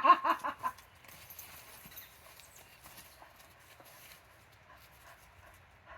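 A dog gives a quick run of about six high, excited yips, then only faint scuffling and pattering of paws.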